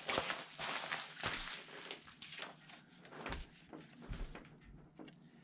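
Rustling and crinkling of packaging being handled while a mailed package is unpacked, with a few soft knocks; busiest in the first couple of seconds, then quieter.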